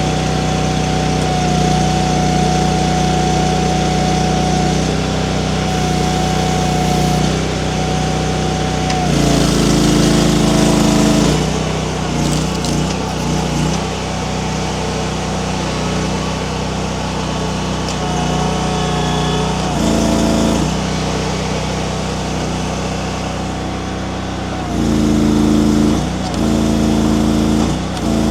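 Mini skid steer engine running steadily while it drives a hydraulic wood splitter attachment. The engine note shifts and grows louder several times as the hydraulics take load, most clearly about nine seconds in and again near the end.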